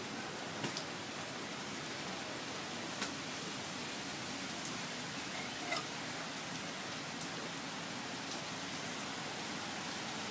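Heavy tropical rain falling steadily, with a few sharp clicks of drops striking a surface.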